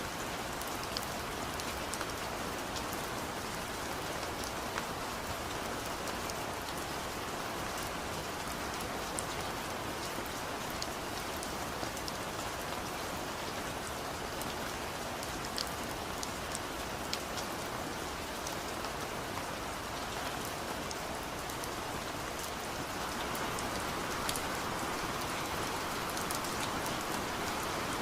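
Steady rain falling, an even hiss with scattered sharp drop ticks, growing slightly heavier near the end.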